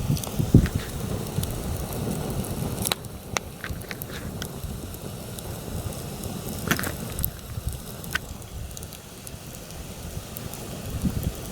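Campfire crackling, with sharp pops every second or two, under heavy wind rumbling on the microphone. The wind is strongest in the first three seconds, eases, then picks up again near the end.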